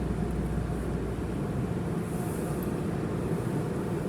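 Steady low rumble of a car and automatic tunnel car wash machinery heard from inside the car, with a faint steady hum and a soft hiss about two seconds in.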